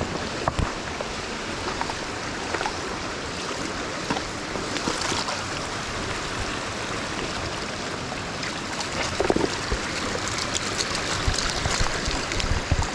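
Mountain stream water rushing steadily over rocks, with a few short sharp sounds scattered through it.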